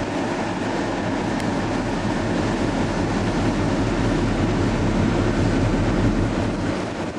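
Car driving, heard from inside the cabin: a steady rumble of engine and road noise with a low hum.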